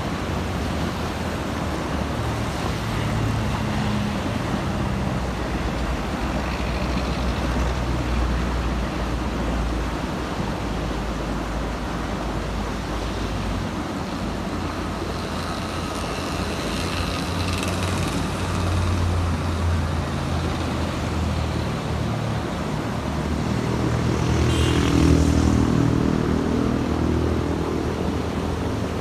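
Road traffic with heavy vehicles passing: a steady wash of tyre and engine noise with low diesel rumble rising and falling as buses and trucks go by. The loudest vehicle passes about 25 seconds in.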